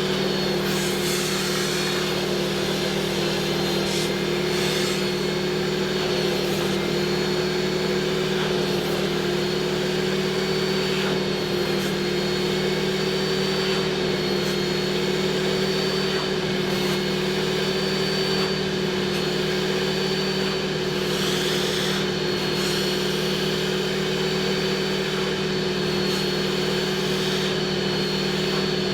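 Carpet and upholstery extractor's vacuum motor running steadily with a constant whine, with a few brief hissy spurts of spray or suction.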